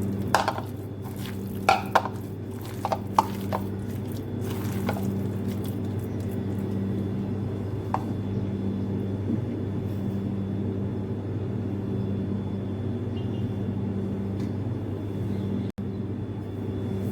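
Chicken pieces being mixed by hand into a thick chickpea-flour batter in a bowl: squelching and a few clicks against the bowl over the first five seconds, then a steady low hum carries on alone.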